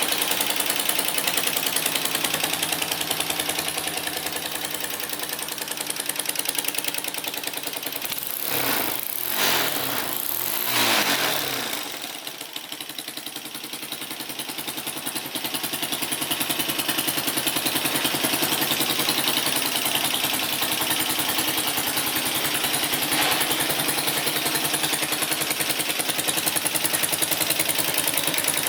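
Lexmoto Arrow motorcycle engine idling steadily, with a few quick revs of the throttle rising and falling about a third of the way in before it settles back to idle.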